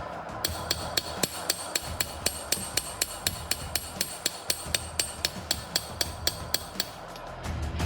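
Hammer strikes on hot steel over an anvil while forging, a steady run of about four blows a second with a bright metallic ring. The hammering pauses briefly near the start and again just before the end.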